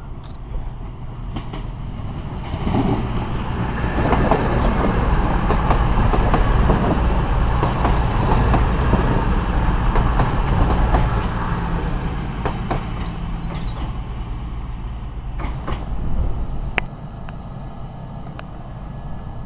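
CrossCountry Voyager diesel multiple unit running past along the platform: its engines and wheels on the rails build up about three seconds in, are loudest for several seconds, then fade away. Near the end come a few sharp clicks.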